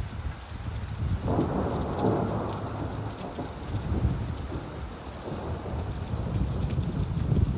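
Steady rainfall with a roll of thunder that rumbles in about a second in and slowly fades over the next few seconds.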